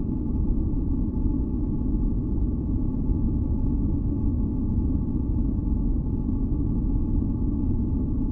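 Deep, steady noise masker with a few faint held tones above it, unchanging throughout: a synthesized ambient white-noise track.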